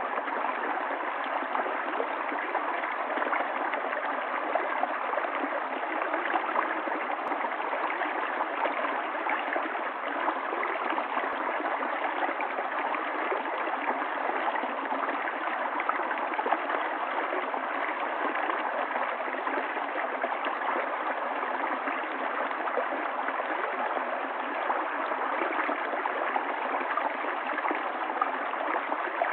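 Running water of a stream flowing steadily, an even rushing sound without change or deep rumble.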